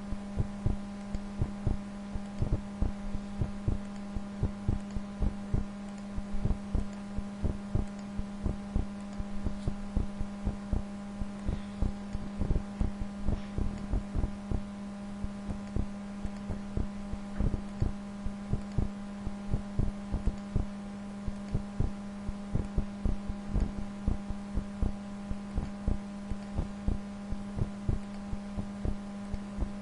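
Computer mouse clicking, several short clicks a second at an uneven pace, over a steady electrical hum.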